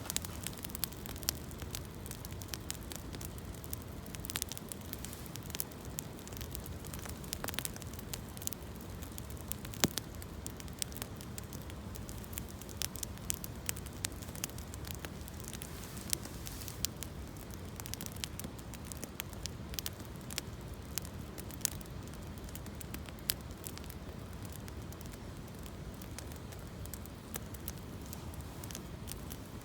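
Campfire of gathered branches and fallen leaves crackling, with sharp pops at irregular intervals over a steady low rush; the loudest pop comes about ten seconds in.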